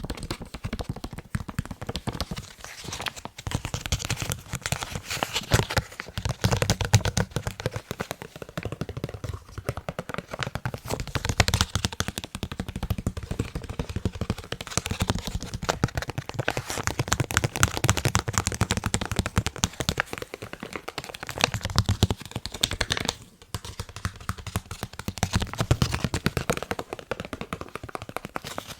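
Rapid fingertip tapping on a face mask: a dense run of fast, crisp taps that pauses briefly about three-quarters of the way through.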